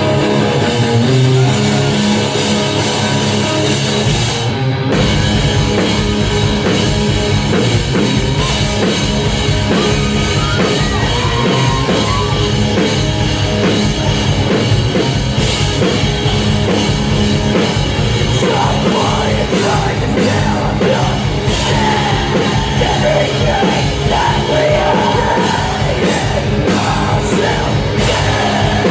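Loud live rock band. Guitar plays with little low end at first; then drums and bass come in about five seconds in, and the full band plays on with singing.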